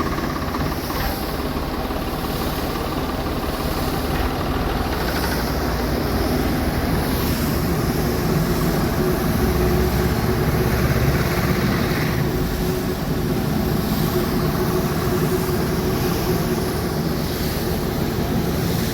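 Tractor engine running steadily, driving a spray pump, with a dense low rumble.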